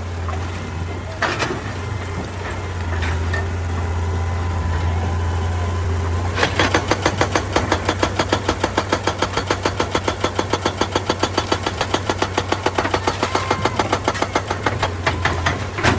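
Excavator diesel engine running steadily, with a couple of sharp knocks early on. About six seconds in, a rapid, even hammering starts, about six blows a second, typical of a hydraulic rock breaker pounding stone.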